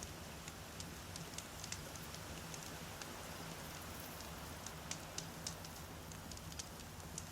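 Wood campfire crackling: irregular sharp pops and ticks of burning logs, a few louder snaps around the middle, over a low steady rumble.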